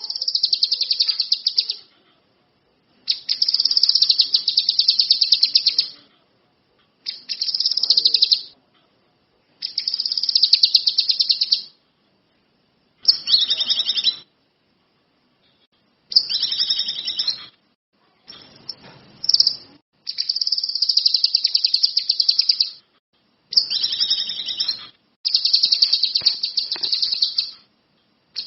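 A kinoi songbird singing in full song: about ten bursts of fast, high, chattering trill, each a second or two long, with short pauses between.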